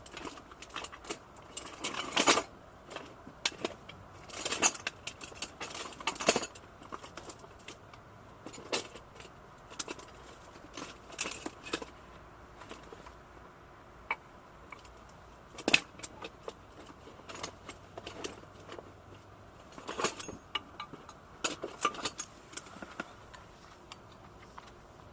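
Camping gear being handled: irregular metallic clinks, knocks and rustles, with a few louder clatters spread through.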